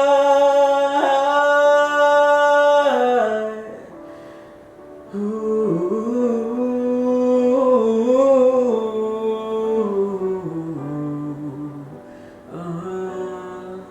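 Solo voice singing wordless held notes, hummed or on a vowel, as the song's outro. A long sustained note comes first; after a short pause, a wavering phrase steps down in pitch, and a brief new phrase begins near the end.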